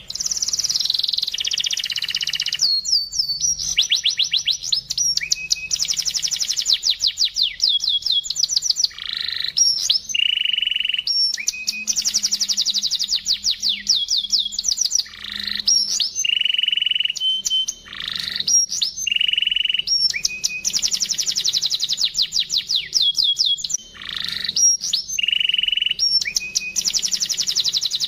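Domestic canary singing a long, continuous song of rapid high trills and rolling phrases, broken by short pauses every several seconds.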